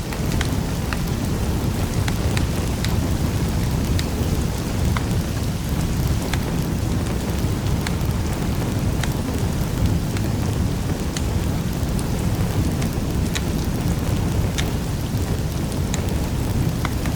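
Wood fire crackling in a fireplace: a steady low rumble of burning with sharp pops scattered irregularly, about one or two a second.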